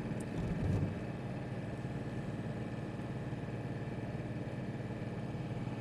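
Vehicle engine running steadily, heard from inside the cab, with a brief low swell just under a second in.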